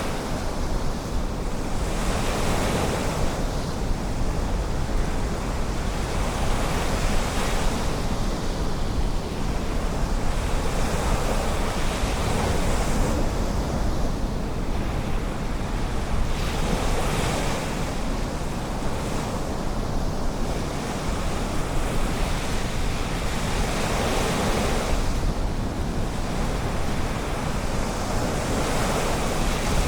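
Ocean surf, with waves breaking and washing up the beach one after another and swelling every few seconds over a continuous hiss of water.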